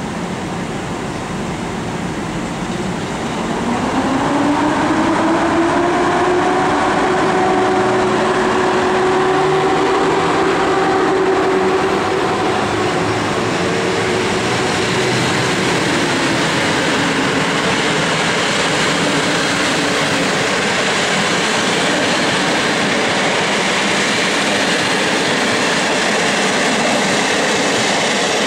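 EU07 electric locomotive pulling away with a passenger train. Its motors give a whine that rises in pitch over a few seconds, holds steady, then fades after about 15 seconds. Throughout, the coaches rumble steadily as they roll past on the rails.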